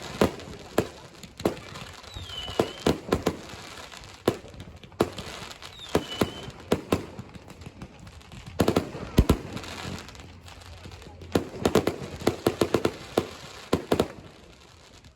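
Fireworks and firecrackers going off all around: irregular sharp bangs, with dense strings of rapid pops twice in the middle. The bangs die down near the end.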